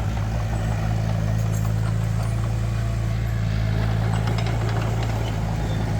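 Diesel engine of heavy construction machinery running steadily with a constant low hum.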